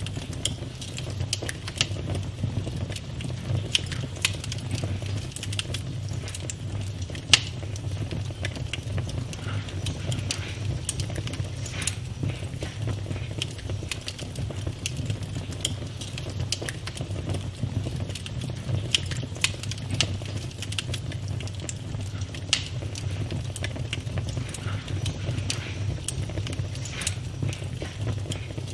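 Campfire burning: a steady low rumble of flames with frequent irregular crackles and pops of wood, a few sharper pops standing out.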